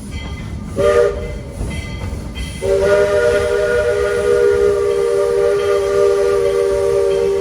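Steam whistle of the 2-8-0 oil-fired steam locomotive No. 40 sounding a chord: one short blast about a second in, then a long blast from a little before 3 seconds on. These are the short and final long blasts of the US grade-crossing signal. A steady rumble of the moving train lies underneath.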